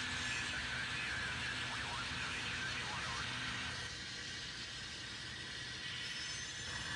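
N scale model train running along the layout track: a steady mechanical hum and whir with a thin tone over it. The higher part of the sound drops away about four seconds in.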